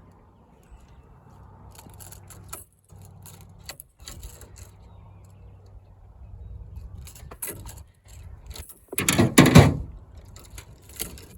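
Metal clinking and rattling of fishing pliers working treble hooks out of a pike's mouth, with scattered sharp clicks and one loud clattering thrash lasting about a second near the end.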